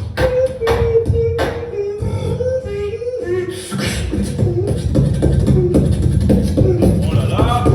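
Beatboxing: sharp snare-like hits over a hummed melody line, then about three and a half seconds in a switch to a heavy continuous bass with a gliding hummed tone on top.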